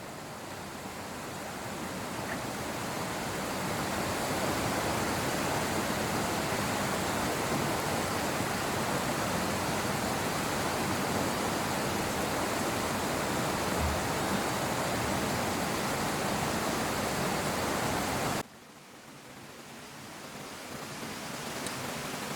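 Steady rushing noise of flowing water. It breaks off sharply about eighteen seconds in to a quieter rush that slowly swells again.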